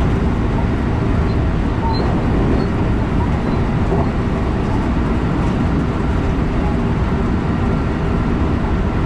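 Electric passenger train running along the line, a steady rumble and rush of wheels on rails heard from inside the front of the train behind the driver's cab.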